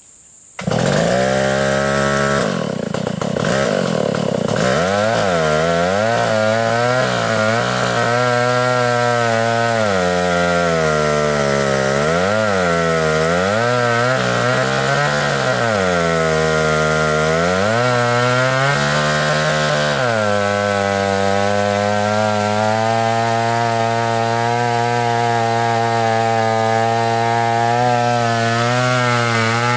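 Stihl 056 two-stroke chainsaw with a 36-inch bar running in a cut, its engine pitch repeatedly dipping under load and picking up again, then holding steadier for the last third. It starts suddenly about half a second in.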